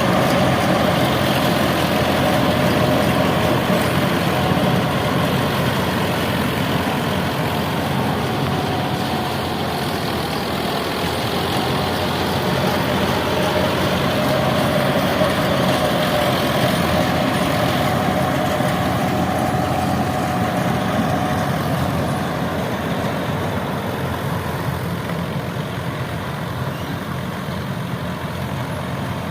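ACI mini combine harvester running steadily while harvesting paddy: a constant machine drone with a steady whine that wavers slightly in pitch. It gets a little quieter toward the end.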